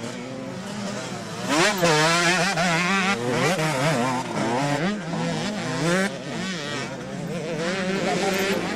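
Motocross motorcycle engines revving hard and dropping back as the bikes race past, the pitch rising and falling with each throttle change. Loudest from about a second and a half in, easing off after about six seconds.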